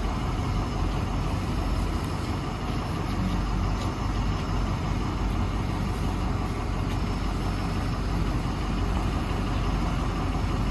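Box truck's engine running steadily at idle, a constant low rumble with no change.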